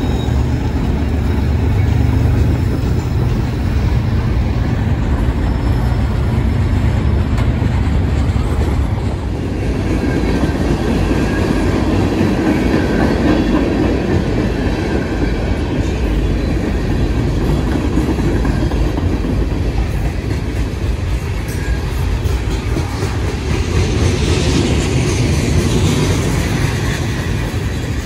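Freight cars (tank cars, gondolas and covered hoppers) rolling past close by, a steady noise of steel wheels on the rails. A deep rumble eases about nine seconds in, and a brighter hiss rises near the end.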